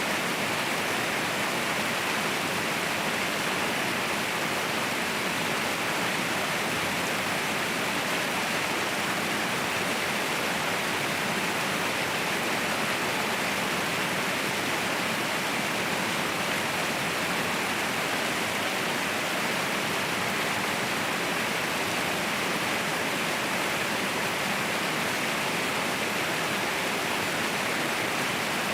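Waterfall rushing in a steady, unbroken roar of falling water, with no changes or separate events.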